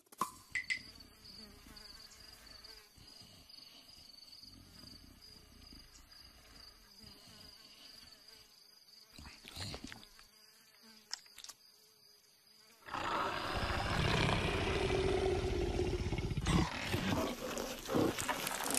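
Cartoon sound effects: a faint steady buzz of insects over savanna ambience, then about two-thirds of the way in a much louder stretch of a fat cartoon leopard growling and straining as it slips round its branch, with a few sharp knocks near the end.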